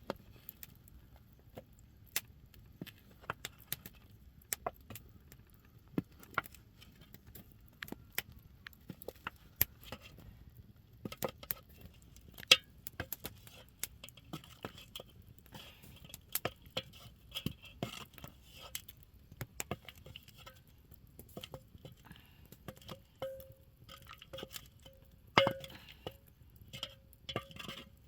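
Irregular sharp clinks and knocks of kitchen utensils and dishes being handled, one every second or so, busier and with a short ringing note in the last few seconds.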